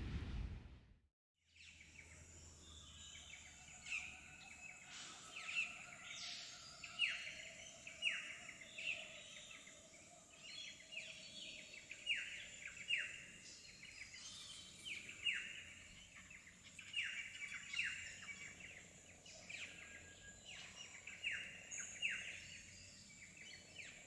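Birds calling faintly from about a second in: many short, downward-sliding calls repeated every second or so, over a faint steady high-pitched whine.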